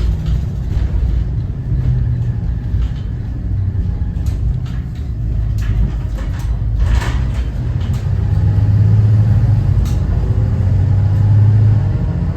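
Cummins ISB 6.7 inline-six turbo-diesel of a Thomas Saf-T-Liner C2 school bus running on the road, a steady low drone that grows heavier about two-thirds of the way in. Short clicks and rattles from the bus body come through now and then.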